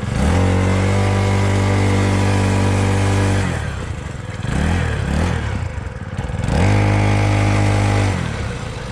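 Small dirt bike engine revving up and held at a steady high pitch for about three seconds, dropping back with a few short blips of throttle, then revving up and held again for about a second and a half before easing off.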